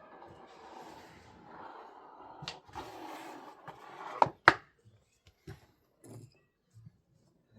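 Rustling, shuffling noise for about four seconds, then two sharp knocks half a second apart, followed by a few fainter knocks.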